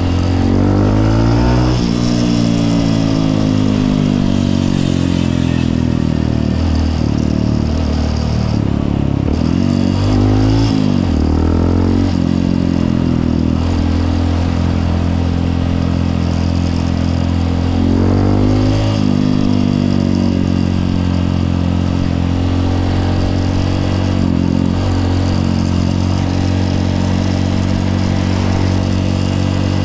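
Honda CRF150L's single-cylinder four-stroke engine under way, revving up and dropping in pitch at gear changes several times, with long stretches of steady cruising between.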